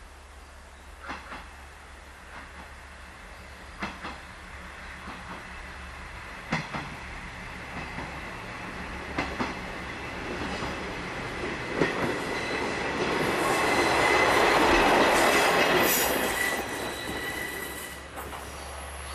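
KiHa 120 diesel railcar passing on jointed track. Its wheels click in pairs over the rail joints every couple of seconds as the running noise grows louder, with a thin high wheel ring, then the sound fades near the end.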